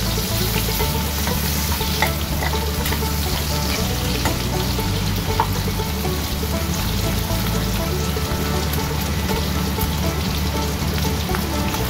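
Pork belly and garlic sizzling steadily in hot oil in a wok, with a few clicks and scrapes of a metal spatula stirring them in the first seconds.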